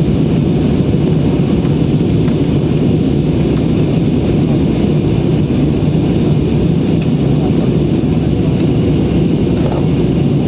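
Steady, loud engine and airflow noise inside a passenger aeroplane's cabin in flight, unchanging throughout.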